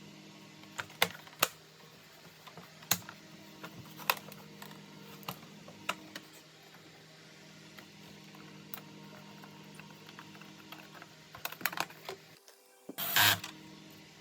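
Irregular sharp clicks and taps, like small hard plastic parts being handled and snapped together, over a steady low hum. A short, louder rustling scrape comes near the end.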